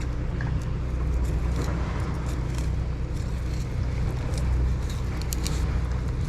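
Boat engine running with a steady low drone, with wind and water noise and a few faint clicks over it.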